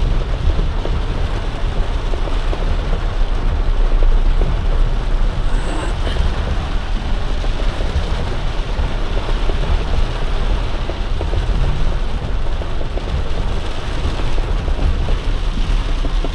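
Heavy rain on a box truck and the steady low rumble of its engine and road noise, heard from inside the cab.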